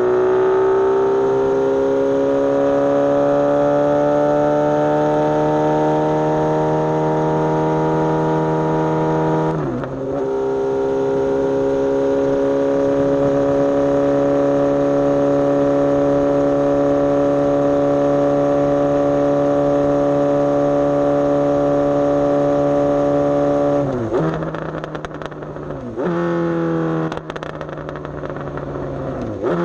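Suzuki GSX-S750 inline-four motorcycle engine running under way. It rises slowly at first, gives a brief dip and gear change about a third of the way in, and then holds a long steady cruising note. Near the end the note falls and picks up again several times as the throttle closes and reopens.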